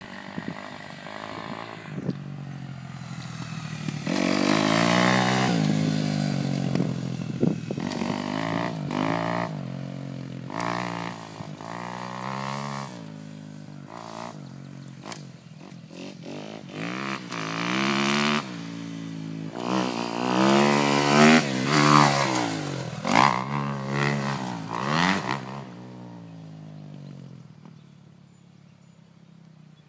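Motocross bike engine being ridden around a dirt track, revving up and falling back again and again as the throttle opens and closes through the turns. It grows quieter and steadier near the end.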